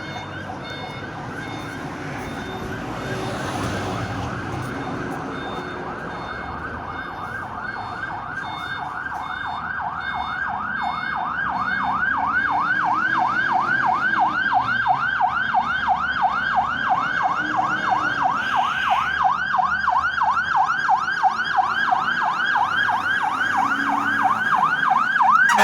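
Fire engine's siren in a fast yelp, sweeping up and down about three times a second, getting steadily louder as the engine approaches on its way to a structure-fire call.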